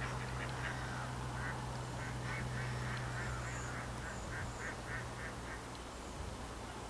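Waterfowl calling in a rapid series of short calls, two or three a second, which stop about five and a half seconds in.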